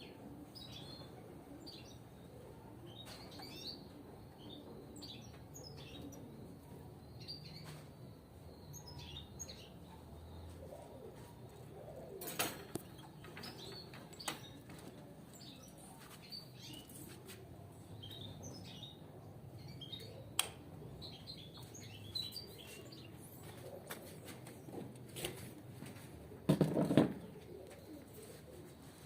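Caged goldfinches chirping and twittering in short, scattered high notes, with a few sharp clicks and a short louder rustle near the end.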